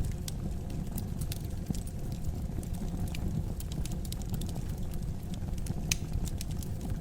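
Wood fire crackling in a fireplace: a steady low rumble of flames with many small irregular pops and snaps, one sharper snap about six seconds in.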